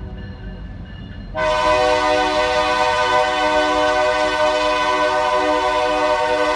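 Diesel locomotive air horn of an Iowa Interstate GP38-2, a fading chord that is followed about a second and a half in by a loud, sharp-starting long blast held steady.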